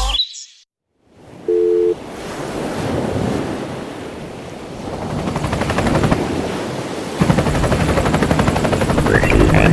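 Wind rushing and buffeting against the microphone, swelling and easing, after a short steady beep of two tones about a second and a half in.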